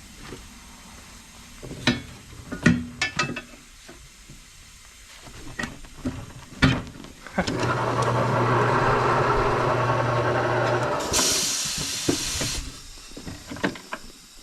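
Tire-changer machine at work: a few metal clanks and knocks, then its turntable motor runs with a steady hum for about three and a half seconds, followed by a short burst of compressed-air hiss from the pneumatic pedal controls.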